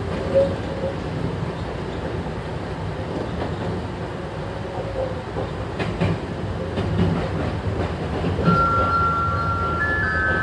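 Chichibu Railway 2000 series electric train running, a steady low rumble with a few sharp rail-joint clicks. About eight seconds in, several high steady tones set in and step up in pitch.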